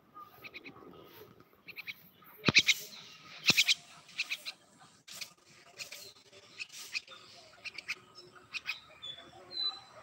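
A perched bird giving short, harsh, high calls over and over in clusters of two or three, with a brief whistled note near the end. Two loud, sharp knocks stand out about two and a half and three and a half seconds in.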